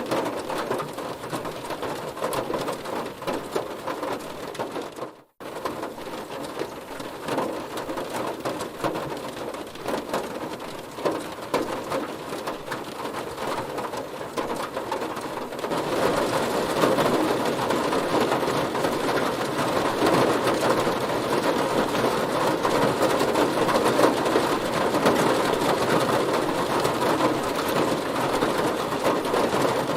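Heavy rain hitting a car's body: a dense, steady patter of drops. It cuts out for a split second about five seconds in and grows louder about halfway through.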